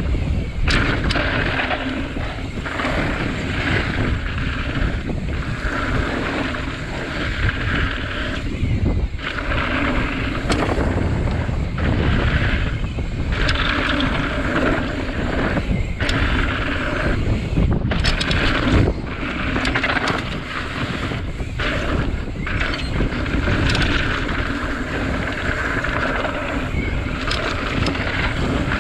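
Wind buffeting a camera microphone on a mountain bike riding a trail, with tyre noise and short knocks from the bike over rough ground.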